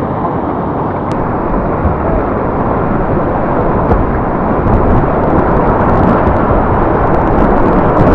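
Class III whitewater rapids rushing loudly and close by, a steady dense water noise without a break.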